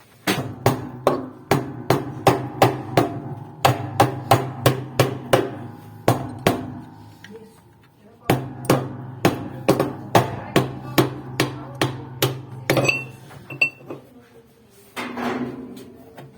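Hammer blows on metal, about three a second, with a ringing hum under them. They come in two runs of several seconds with a short pause between, then one brief noise near the end.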